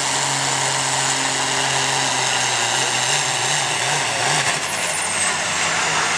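Farm stock pulling tractor's diesel engine running steadily and loud, its note wavering about three seconds in, with a high whine that falls away near the end.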